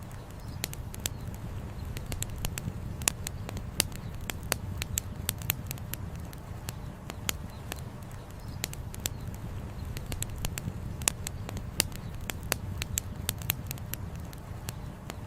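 Wood campfire crackling, with many sharp pops at irregular intervals over a steady low rumble.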